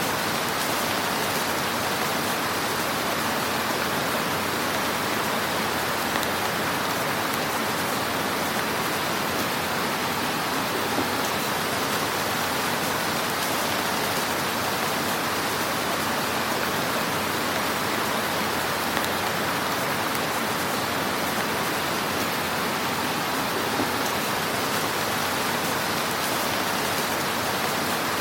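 Fire burning in a fireplace: a steady, dense crackling hiss with an occasional slightly louder pop.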